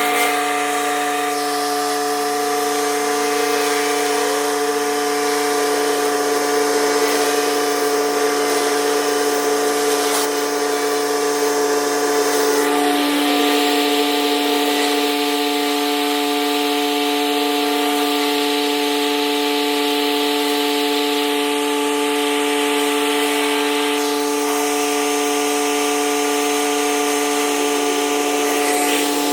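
Pressure washer running steadily at a constant pitch, with the hiss of the high-pressure water spray over it that swells louder for stretches in the middle and again near the end.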